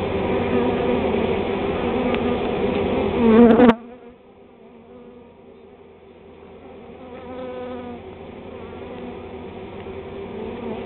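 Honey bee swarm buzzing as a dense, many-pitched hum. It is loud and swells briefly, then cuts off abruptly a little under four seconds in. After that it goes on much fainter and slowly grows louder again.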